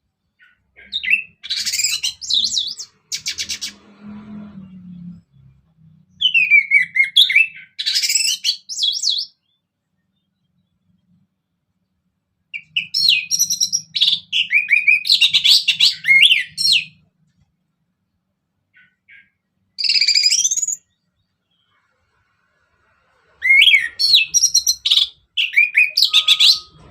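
Orange-headed thrush singing in bouts of rapid, varied warbling phrases, each lasting one to four seconds, with short silent pauses between them, five bouts in all.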